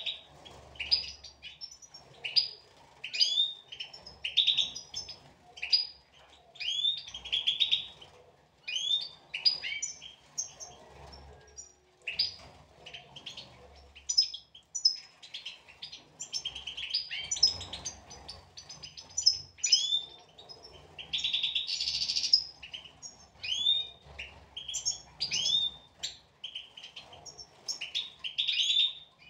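European goldfinches chirping and twittering, a quick, busy run of short rising calls that goes on without a break and thickens into overlapping calls at times.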